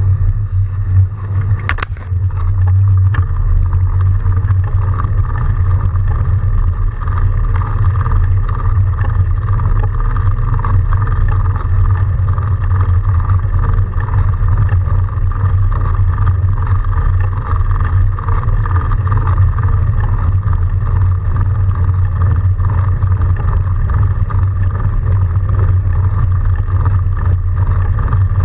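Steady riding noise from a fat bike moving through snow, mostly wind buffeting the camera microphone over tyre and drive noise, with a single sharp click about two seconds in.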